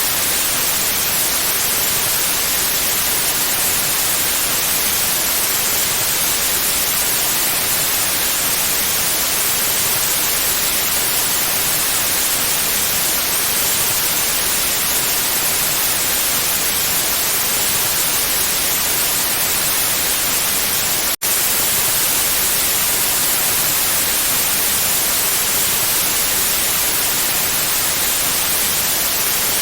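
Electronically generated white noise: a steady, even hiss, broken by a split-second dropout about two-thirds of the way through.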